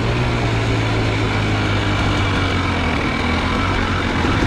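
Dirt bike engine running at a steady, even pitch.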